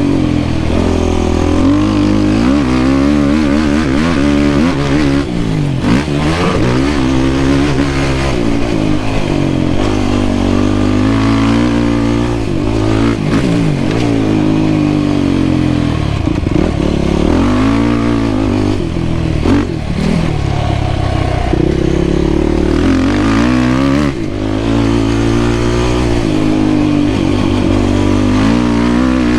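Yamaha YFZ450R quad's single-cylinder four-stroke engine at speed, its pitch climbing and dropping again and again as the throttle is opened and shut through the track's jumps and turns.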